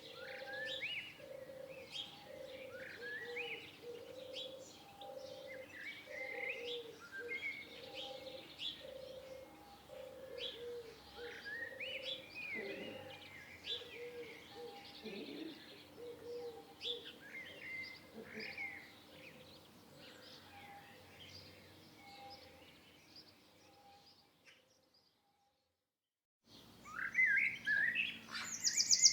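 Many small songbirds chirping and twittering in short rising and falling notes, with a low note repeating about once a second underneath. The sound fades and cuts out to silence for about two seconds near the end, then comes back louder with birds chirping.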